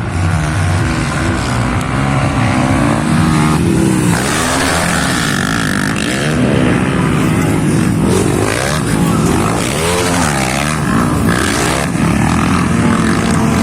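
Several motocross bikes racing, their engines revving up and falling back in overlapping rising and falling whines as the riders work the throttle and shift.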